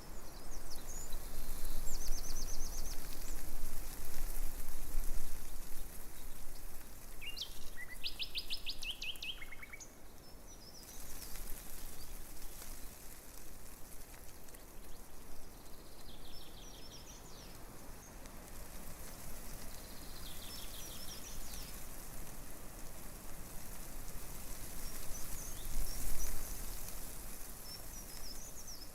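Breeze rustling tree leaves in a steady hiss that swells in gusts during the first few seconds and again near the end. Small birds chirp over it now and then in short, fast trills, the loudest a little before the middle.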